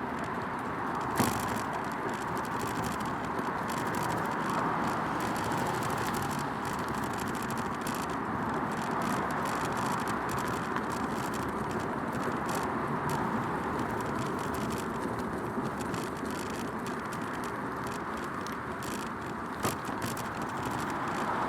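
Bicycle coasting downhill on a path, its tyre noise steady, with the bike's frame rattling under the bike-mounted recorder. A sharp knock about a second in and another near the end, as the bike jolts over bumps.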